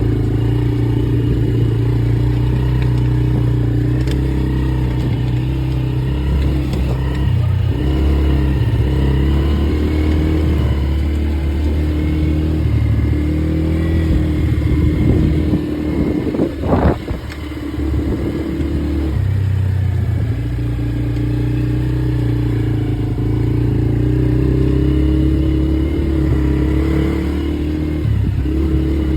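Polaris quad bike engine running steadily while riding along, its note dipping and easing off about halfway through before picking up again.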